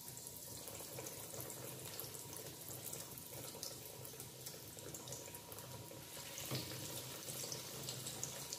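Breaded beef cutlets sizzling in hot oil in a pan: a steady faint hiss with fine crackling. A second cutlet is slid in from a slotted spoon partway through.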